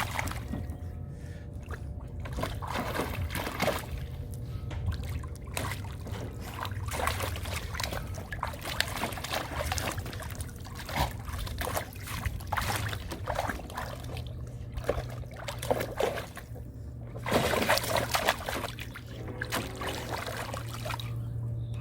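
Water splashing and sloshing irregularly as a golden retriever plays in a full tub of water.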